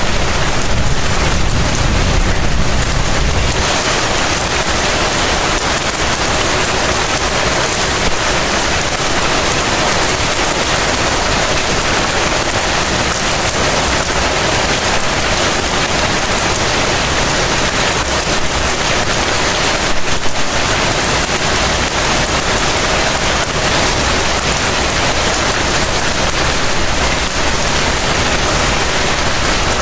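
Heavy rain falling steadily, a dense even hiss, with a low rumble of thunder dying away in the first few seconds.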